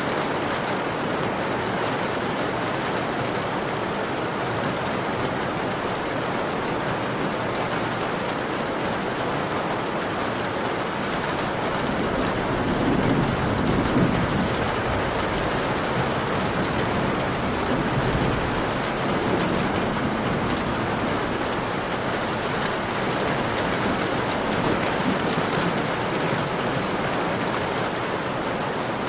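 Steady rain pattering on a window pane. A low rumble of thunder swells briefly about halfway through.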